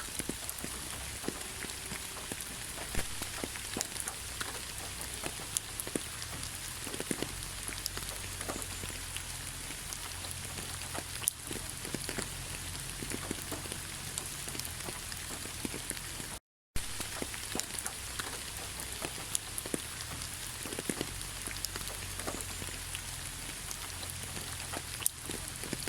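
Heavy rain falling steadily: a dense hiss with many scattered sharp drop ticks. The sound cuts out completely for a split second about two-thirds of the way through.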